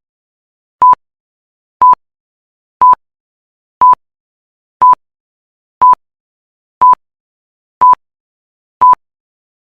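Electronic countdown beeps: a short, pure, high beep about once a second, nine times, with dead silence between.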